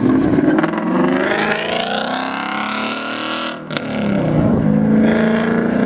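A car accelerating hard away, its engine revving up steadily for about three seconds, dropping briefly at an upshift a little past halfway, then pulling again in the next gear.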